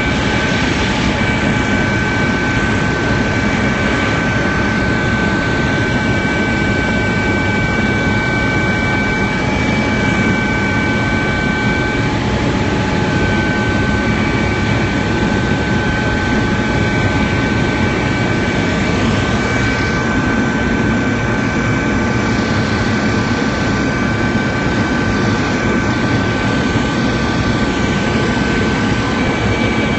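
Helicopter cabin noise in flight: a steady, loud drone of rotor and engine with a constant high turbine whine over it.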